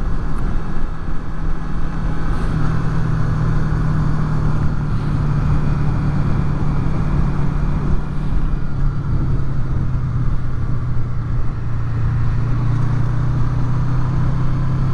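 Honda VFR800's V4 engine running at a steady cruise, with wind and road noise, heard through helmet microphones covered with furry windshields.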